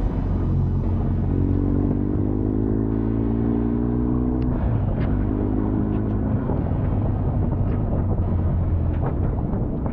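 BMW R1250 GS Adventure's boxer-twin engine running under way with road and wind rush, its pitch rising as it pulls through a gear, then dropping at a change about halfway through before rising again briefly.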